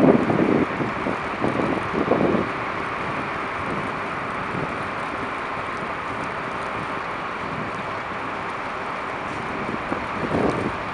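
Strong snowstorm wind gusts buffeting the microphone, loudest in the first couple of seconds and again near the end, over a steady rush of wind and street traffic.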